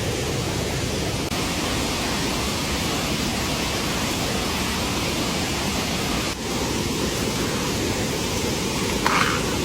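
A steady, even rush of water. A brief sharper sound cuts in just before the end.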